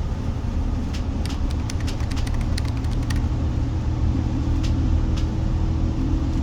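Steady low rumble of a road vehicle, with a cluster of short light clicks and rattles starting about a second in.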